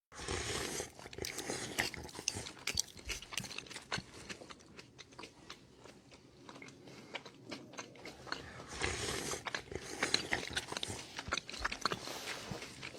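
Crunchy chewing: many quick, uneven crunches of something hard being bitten and chewed.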